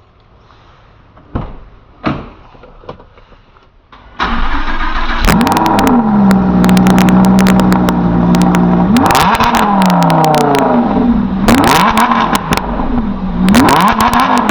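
Lamborghini engine cold-starting about four seconds in, with a loud flare of revs that settles into a steady high idle. It is then blipped three times, each rev rising and falling back to idle.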